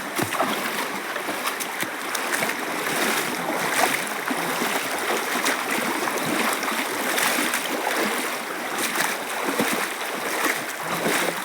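Running water of a stream, with many small splashes.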